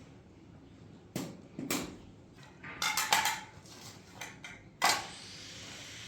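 A few separate clinks and knocks of hard objects being handled: two about a second in, a quick cluster around three seconds, and a louder knock near five seconds.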